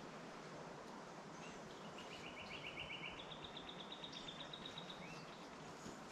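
Faint steady outdoor background noise with a bird's rapid, high trill about two seconds in, which steps up to a higher pitch a second later and runs for nearly two seconds more, with a few short chirps around it.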